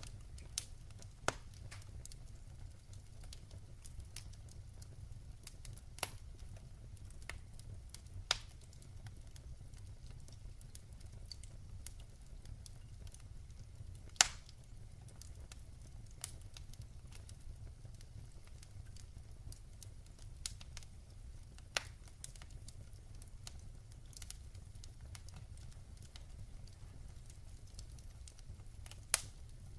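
Firewood burning in a wood fireplace: a low steady rumble with sharp crackles and pops at irregular intervals. The loudest pop comes about halfway through.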